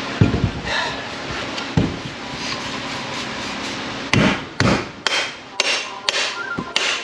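Repeated hammer blows on a turbocharger to knock it apart: two single strikes, then a quicker run of about six blows in the second half.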